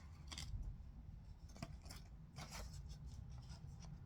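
Scissors snipping a few short cuts, trimming the corners of a homemade paper sign round.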